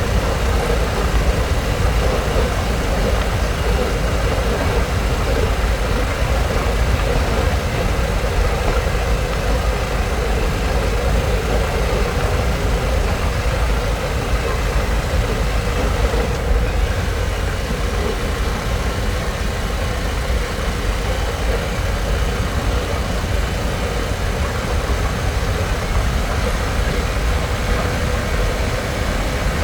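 2022 Harley-Davidson Pan America's 1250 cc V-twin running steadily at cruising speed, with a heavy, constant rush of wind on the helmet-mounted microphone.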